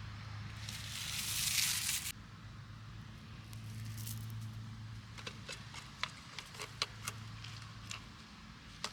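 A short loud hiss near the start, then a series of sharp light clicks and taps over a steady low hum.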